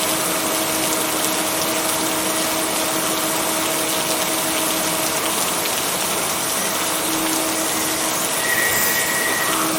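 Steady rain falling, an even hiss with no let-up, over a faint steady low hum.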